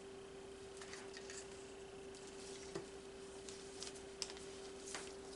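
Faint scattered clicks and light taps of plastic paint cups and bottles being handled while pouring acrylic paint, over a steady low hum.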